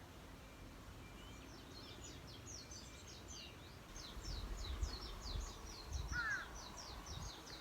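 Birds chirping in a quick, continuous series of short, high, downward-sliding chirps, several a second, with one lower call about six seconds in and a low rumble underneath.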